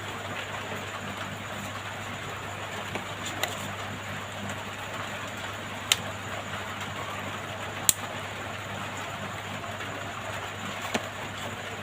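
Steady low hum and hiss with a few light, sharp clicks scattered through it, the loudest two near the middle.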